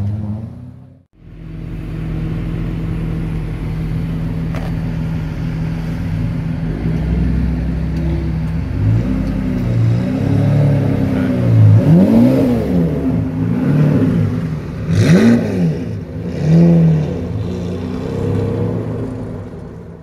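Lamborghini Murciélago V12 running at low speed as it rolls past, then blipped several times in the second half, each rev rising and falling quickly. The sound drops out briefly about a second in.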